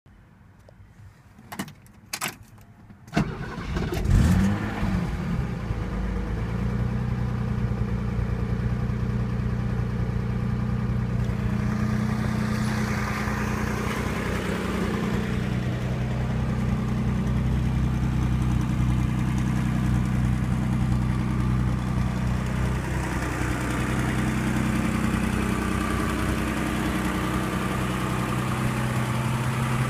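Mercedes-Benz 280SL's fuel-injected 2.8-litre straight-six being started. A few short clicks, then the engine catches about three seconds in, flares briefly and settles into a steady idle.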